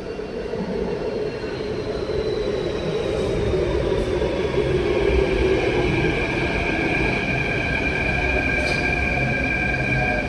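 Indian Railways train passing through a station: a running rumble that grows louder over the first few seconds, with high squealing tones from the train that slide down in pitch and then hold steady.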